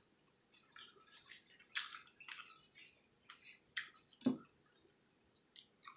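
Close-miked wet chewing and mouth smacks from eating a mouthful of fettuccine Alfredo: a string of short, soft squelches, with one fuller, lower sound about four seconds in.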